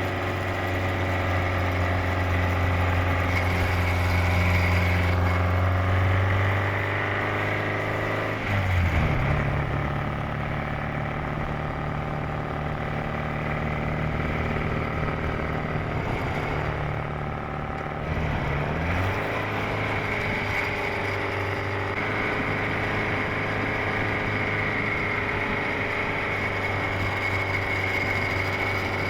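Supercharged 1328 cc MG XPAG four-cylinder engine of a 1938 MG TA Special race car running steadily. Its note steps up in pitch about eight and a half seconds in, holds for about ten seconds, then drops back.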